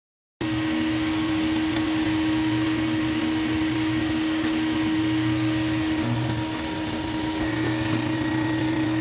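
Electric woodworking machine running steadily with a constant hum and hiss, cutting in abruptly about half a second in.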